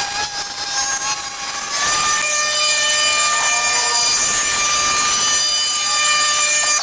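Motor of a handheld cutting power tool running at high speed with a steady whine. Its pitch steps up about two seconds in and then holds.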